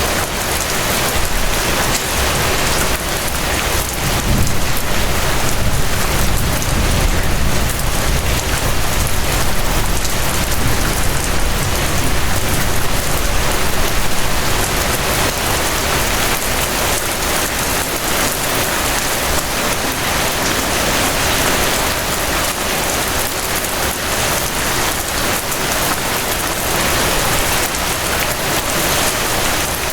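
Gentle rain falling steadily, a dense even patter of drops. A low rumble swells about four seconds in and fades out by the middle.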